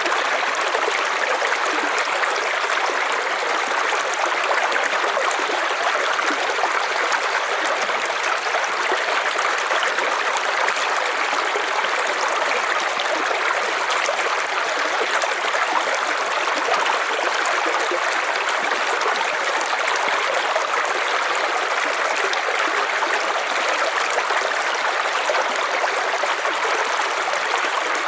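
River water flowing steadily over rocks, a continuous even rush and gurgle with no change in level.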